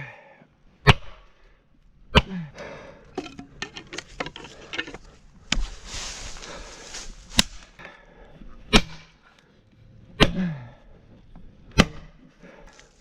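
Repeated sharp blows on wood, about one every second and a half, each with a short ringing tail. A hiss rises in the middle.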